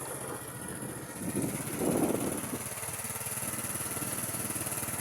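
Small motorcycle engine running steadily, briefly louder about two seconds in.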